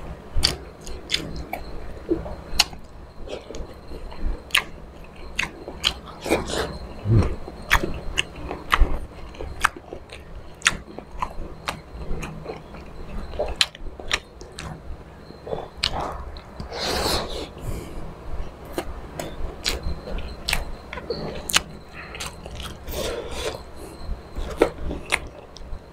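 Close-up chewing and lip-smacking of squid adobo, with many sharp wet clicks at an irregular pace and a few louder smacks.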